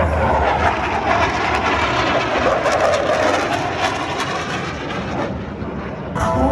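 Jet noise from Blue Angels F/A-18 Super Hornets flying past: a loud, dense rush that eases off toward the end.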